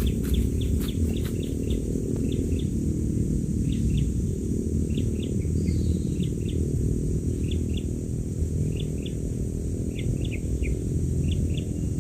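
Newly hatched quail chicks peeping: short high cheeps, mostly in quick pairs, about once a second, over a loud steady low hum.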